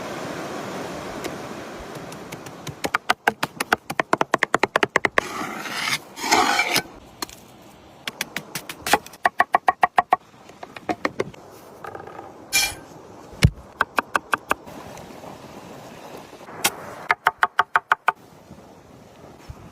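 Knife chopping on a wooden cutting board in quick runs of several strokes a second, stopping and starting again a few times, with a brief scrape partway through.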